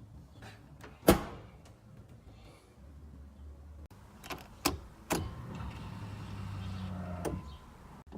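A car door shutting hard about a second in, then a few sharp clicks and a steady low hum for about two seconds as the Honda is readied for a cold start.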